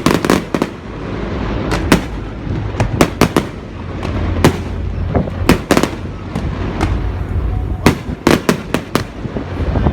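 Fireworks going off: a rapid, irregular run of sharp bangs and cracks, sometimes several within a second, over a steady low rumble.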